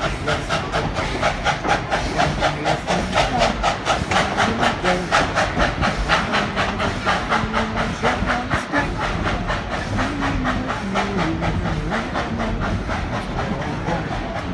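Narrow-gauge steam locomotive working under way, its exhaust chuffing in a steady rapid beat of about four chuffs a second, with steam hiss.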